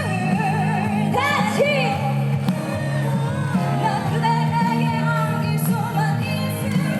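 Live band playing a pop-rock song with a lead vocal, sung melody wavering over steady bass notes.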